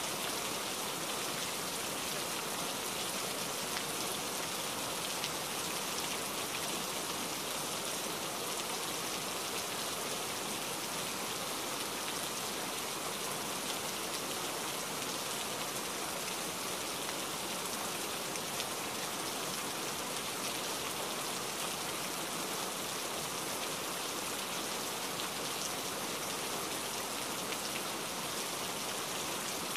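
Rain falling steadily: an even hiss with scattered drops ticking on surfaces.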